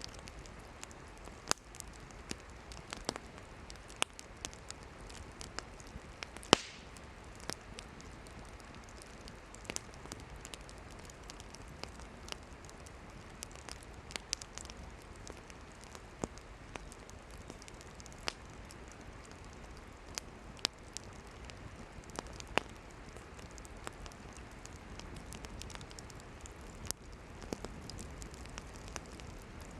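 Wood campfire burning: a steady hiss with scattered sharp crackles and pops from the burning firewood, the loudest pop about six and a half seconds in.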